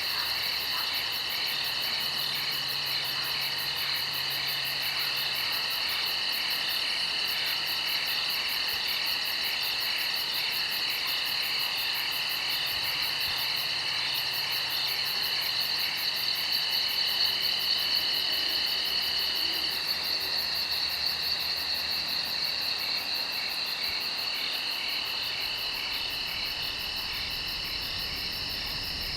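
Chorus of insects, crickets among them, trilling steadily at several high pitches, one of the layers pulsing in a regular beat.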